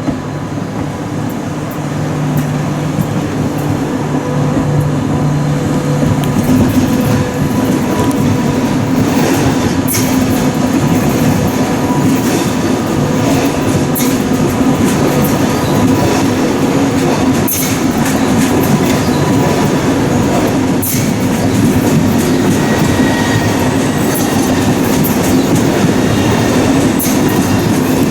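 SBB RABe 503 (ETR 610) electric tilting train rolling by close at hand, growing louder over the first several seconds and then holding steady. The wheels click over rail joints and points, over a steady electric hum.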